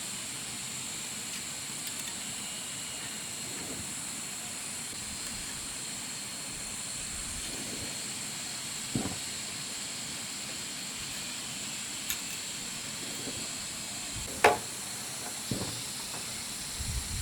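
Steady high-pitched insect chorus. A few scattered knocks stand out, the loudest and sharpest a little before the end.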